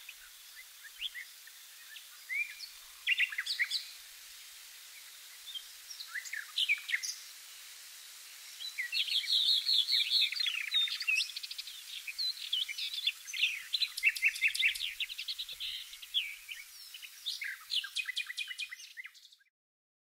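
Songbirds singing and chirping, several calls overlapping; sparse at first, busier from about halfway, then fading out just before the end.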